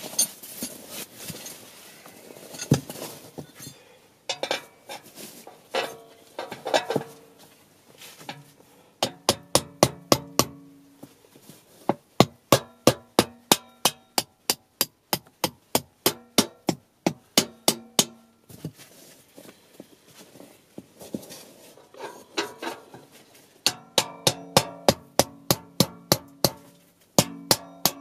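Hammer blows driving steel rebar tent pegs into frozen ground, in runs of rapid strikes about four a second, each blow leaving a metallic ring whose pitch shifts from run to run, with pauses between runs. Before the hammering starts there is scuffling and crunching.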